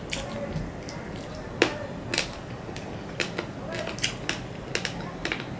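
Close-miked eating sounds: a mouthful of rice and curry being chewed with wet lip smacks and mouth clicks, and fingers mixing rice on a steel plate. The sounds come as an irregular string of sharp clicks, the loudest about one and a half seconds in.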